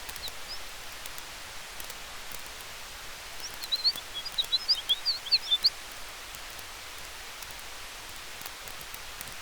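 Campfire crackling softly over a steady hiss of wind in the trees, broken about halfway by a quick flurry of short, high bird chirps lasting about two seconds.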